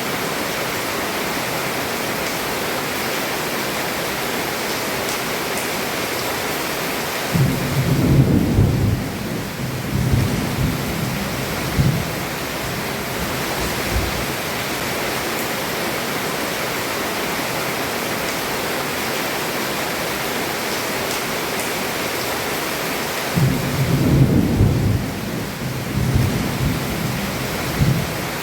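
Heavy rain falling steadily on a roof, with two low rolls of thunder, one about seven seconds in and another about twenty-three seconds in, each rumbling for several seconds.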